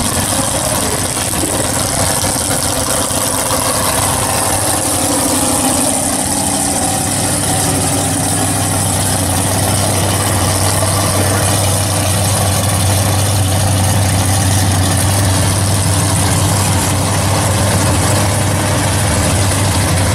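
Drag race car engines idling and running, a loud steady engine drone; a deep low hum grows stronger about seven seconds in.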